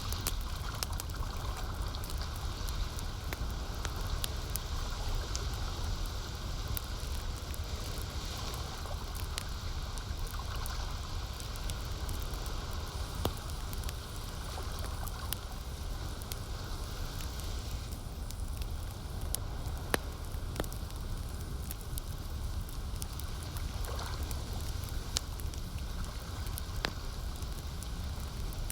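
Campfire crackling, with scattered sharp pops, over a steady rush of lake water.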